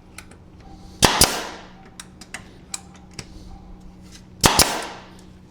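Nail gun firing twice into wooden stakes, about three and a half seconds apart. Each shot is a sharp double crack with a short fading tail. Light clicks and knocks of wood being handled come between the shots.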